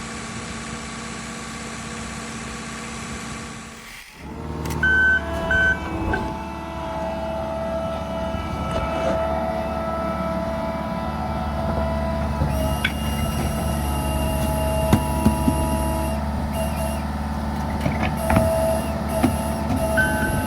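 Heavy diesel vehicle engine running steadily. About four seconds in the sound breaks off and resumes louder, with a few short high beeps soon after and again near the end.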